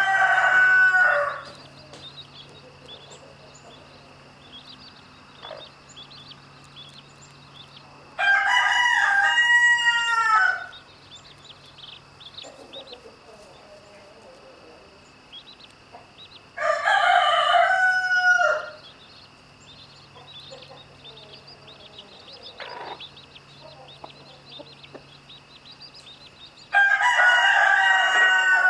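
Rooster crowing repeatedly: four loud crows of about two seconds each, one roughly every eight seconds, the first already under way at the start.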